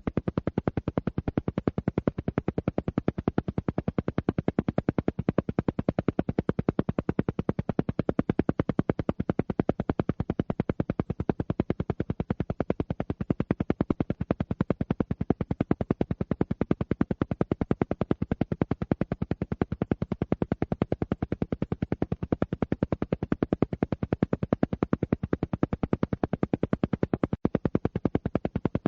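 Alpha-wave brainwave-entrainment track: a fast, perfectly even train of sharp pulses repeating many times a second at a constant level, an isochronic pulse meant to steer the listener's brain toward the relaxed alpha state.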